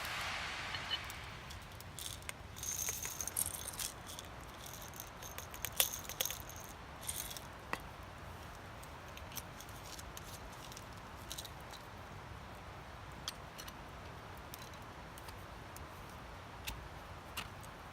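Light clicking and rattling of small hard objects being handled, most dense in the first half and then sparse, over a steady background hiss.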